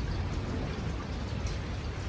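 Thunderstorm downpour: rain falling as an even hiss with scattered drop ticks, over a steady low rumble.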